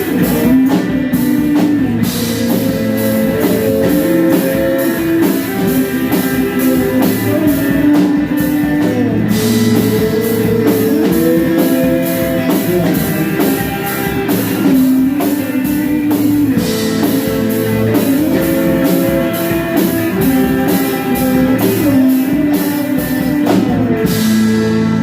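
Rock band playing an instrumental passage: a guitar melody over bass and a drum kit with steady cymbals. Near the end the drums stop and a low note is held.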